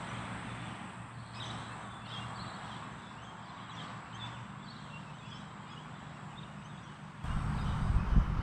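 Wind noise picked up by a GoPro Hero 8's built-in microphone: a steady outdoor rush of wind through trees with a low traffic hum. About seven seconds in it switches suddenly to louder, gusty rumbling of wind buffeting the microphone directly.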